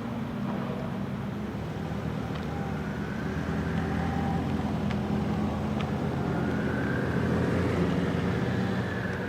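Porsche 992 GT3 RS flat-six with an aftermarket Edizioni Corsa exhaust running at steady, fairly low revs, growing louder from about three seconds in.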